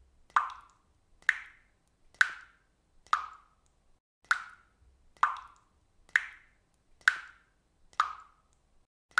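Faucet dripping water, single drops falling at a steady pace of about one a second. Each drop is a sharp plop with a short ring.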